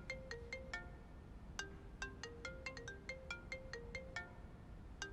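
Mobile phone ringtone: a quick melody of short, bright notes, with a brief pause about a second in before the phrase repeats.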